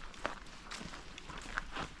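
Footsteps of a person walking along a nature trail, a few short steps in a steady walking rhythm.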